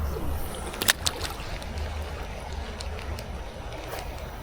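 Creek water moving around a canoe, with a low steady rumble underneath and two sharp knocks about a second in.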